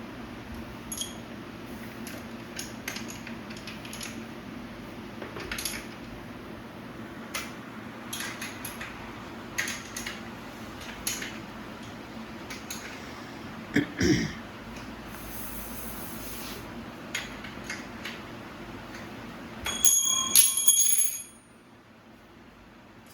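Bicycle being assembled: scattered small clicks and metal clinks of parts and tools, with a knock about two thirds of the way through. Near the end, a bicycle bell rung in a quick series of rings for about a second and a half.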